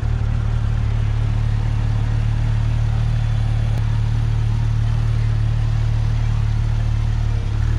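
Porsche 911 GT3 RS flat-six engine idling steadily at standstill, a loud, even, deep drone.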